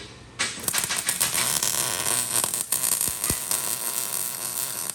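Electric arc welder laying a weld bead: a steady, dense crackling sizzle full of sharp spatter pops. It starts about half a second in and stops abruptly as the arc is broken.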